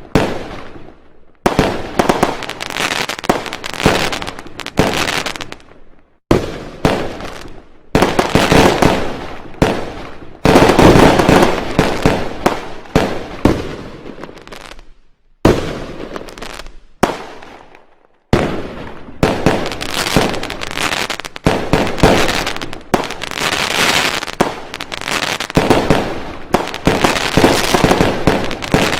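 Fireworks going off in rapid barrages of bangs and crackles, each volley lasting a few seconds, with brief pauses between them.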